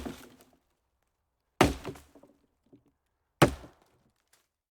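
Sharp chopping knocks, one about every two seconds, each dying away quickly.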